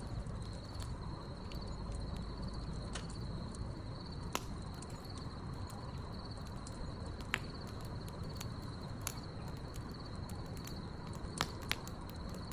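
Crickets chirping in a steady, pulsing high trill over a crackling wood fire, with a low rumble under it and scattered sharp pops, two close together near the end.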